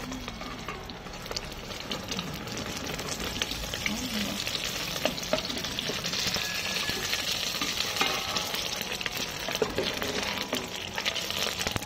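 Egg-and-chayote omelette sizzling and crackling steadily in hot oil, with a metal spoon scraping and clicking against the pot.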